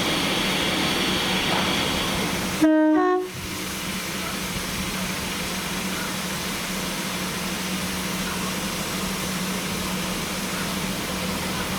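A short, loud toot on a steam locomotive whistle about three seconds in, stepping slightly up in pitch, over steady background noise that is a little quieter after the toot.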